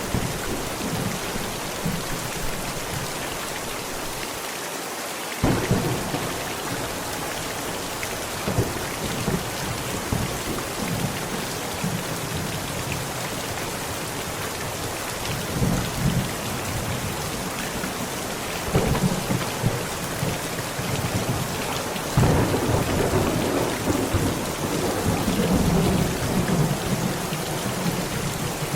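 Heavy rain falling steadily on a tent, with thunder: several sudden cracks through the storm and, a little past the middle, a louder clap that rolls on as a rumble for several seconds.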